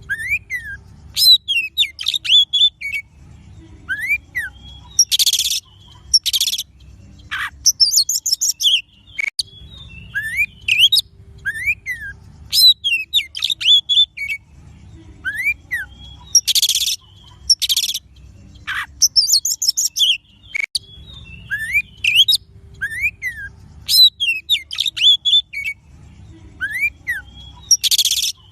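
Oriental magpie-robin (kacer) song: varied whistled phrases that rise and fall, fast trills and harsh scratchy notes. The same sequence repeats about every eleven seconds, over a faint low rumble that comes and goes.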